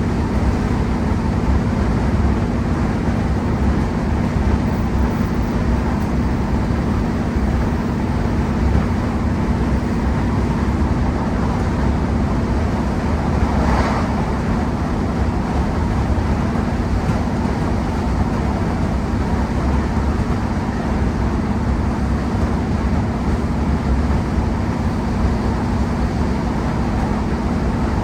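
Class 150 Sprinter diesel multiple unit on the move: its underfloor Cummins diesel engines running with rail and wheel noise as a steady low drone. There is a brief rush of higher noise about halfway through.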